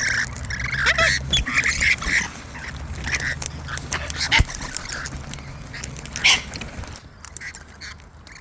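Wild cockatoos and lorikeets squawking and chattering in short, harsh calls, with a few sharp clicks among them.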